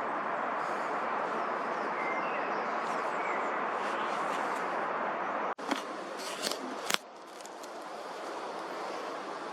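Outdoor ambience: a steady rushing noise with a few faint bird chirps, then a cluster of sharp clicks and knocks about six to seven seconds in, after which the rushing is quieter.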